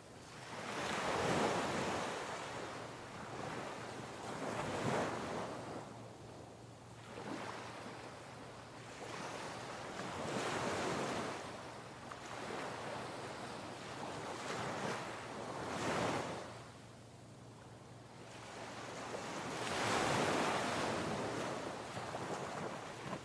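Ocean waves breaking and washing back, the surf swelling and fading every few seconds.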